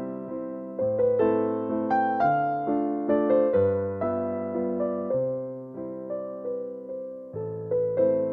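Soft background music played on a piano or electric piano, slow notes and chords that ring and fade, changing about once a second.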